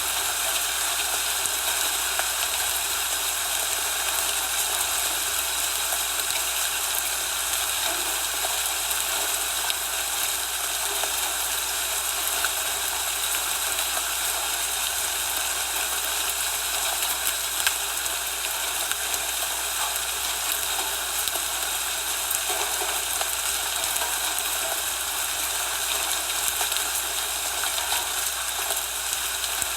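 Steady hiss of falling snow, with faint scattered ticks.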